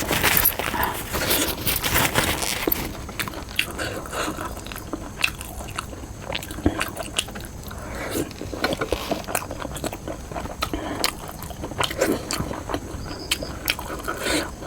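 Close-miked eating: biting and chewing, with crunchy bites and many short wet clicks throughout. The food is spicy noodles and fried momos.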